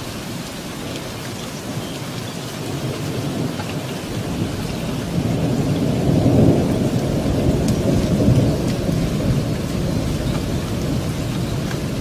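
Steady rain with a low roll of thunder that swells about halfway through and slowly dies away.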